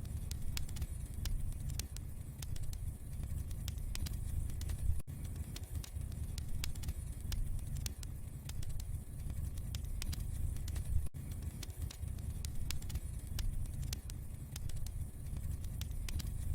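Wood fire in a fireplace crackling: many small, sharp, irregular pops over a steady low rumble of the flames.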